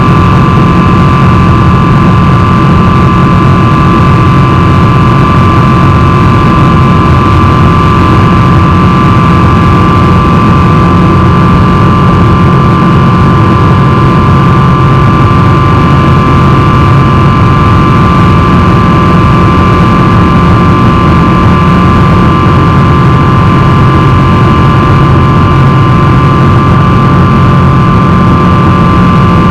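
Boeing 777-300's jet engines running steadily, a constant whine over a low rumble with no change in pitch.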